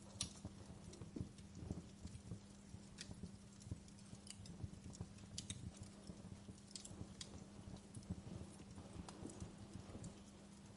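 Wood fire crackling: irregular sharp pops and snaps over soft low knocks of burning wood, with a faint steady low hum underneath.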